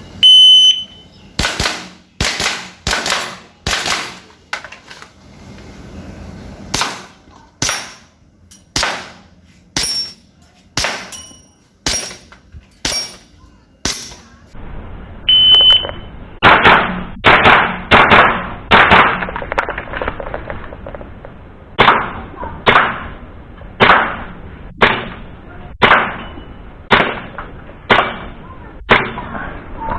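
Airsoft guns firing two strings of sharp single shots, each string begun by a short electronic beep. The first string is about a dozen crisp pops roughly a second apart. After the second beep comes a longer run of duller pops, briefly quicker at first.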